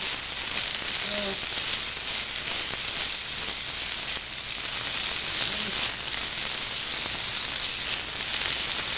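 Fresh artichoke pieces frying in a saute pan: a steady sizzle with fine crackling throughout.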